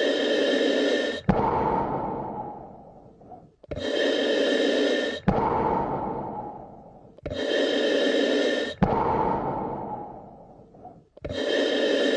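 A person breathing slowly and deeply, in and out, one full breath about every four seconds. Each breath is a loud, even draw of about a second and a half followed by a longer breath that fades away, the cycles repeating exactly alike.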